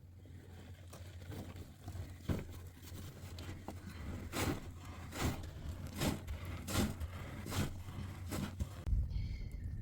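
A run of evenly spaced scraping or crunching impacts, about one every 0.8 seconds, over a low steady rumble.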